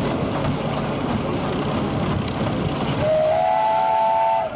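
Steam traction engine whistle blowing one long steady blast about three seconds in, sliding up slightly in pitch as it opens, over steady background noise.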